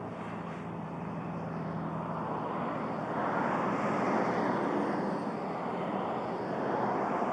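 Airplane flying past: a steady rush of engine noise that swells and eases with slow whooshing sweeps, loudest about four seconds in.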